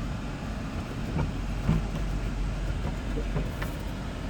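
Lexus GX 470's 4.7-litre V8 idling while it warms up, a steady low rumble, with a few light clicks and knocks over it.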